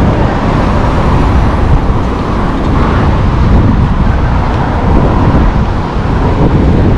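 Steady city traffic noise, a continuous rumble of road vehicles.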